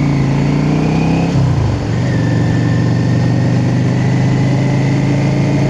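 Motorcycle engine running under way, dropping in pitch about one and a half seconds in, then holding steady.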